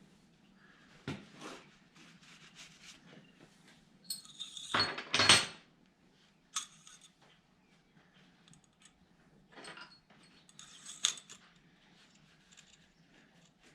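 Metal tools and parts clinking and clattering as they are handled, with the loudest ringing clatter about five seconds in and another sharp clank near eleven seconds.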